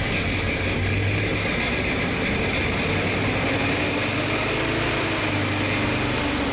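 1965 Chevrolet Corvette's V8 idling steadily with a deep growl.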